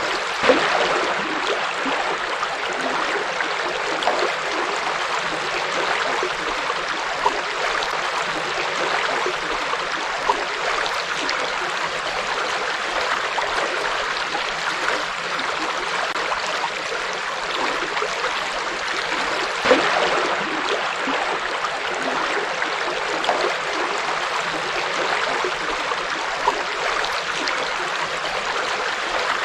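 Forest river flowing over rocks: a steady rushing and babbling of water, with small splashes now and then.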